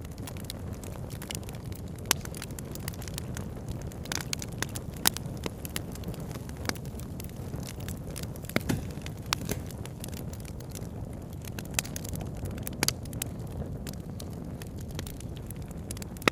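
A wood campfire crackling, with irregular sharp pops of burning wood, several of them louder, over a steady low rush of river water.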